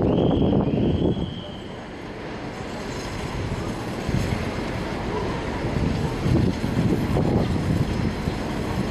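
Diesel-hauled passenger train approaching over station points: a high steady squeal of wheels in the first second or so, then the rumble of the locomotive and wheels gradually growing louder as it comes closer.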